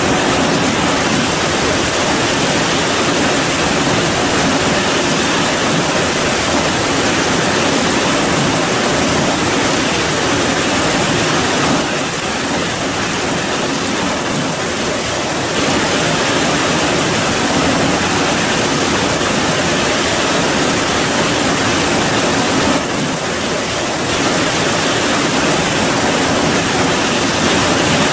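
Heavy, steady rain falling: a dense, even hiss that dips slightly in level twice.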